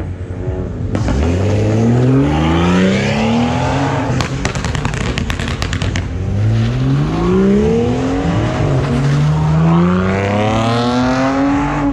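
A performance car's engine revving hard in three long rising pulls, with a quick run of sharp exhaust pops about four to six seconds in.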